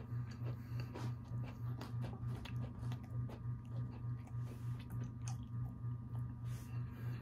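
Close-up chewing of a Mexican bakery cookie (pan dulce), with many small crisp crunches, over a steady low hum that throbs evenly.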